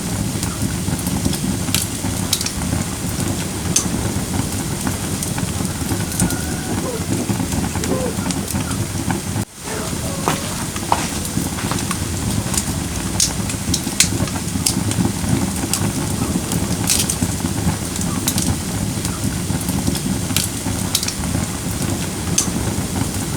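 Firewood burning in a fire pit: a steady low rush of flame with frequent sharp crackles and pops. The sound drops out for a split second about nine and a half seconds in.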